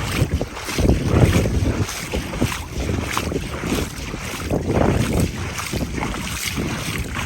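Strong gusting wind buffeting the microphone, with irregular rumbling gusts.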